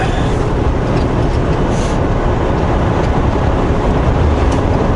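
Steady rumble of a semi-truck heard from inside the cab: engine drone and road noise at speed.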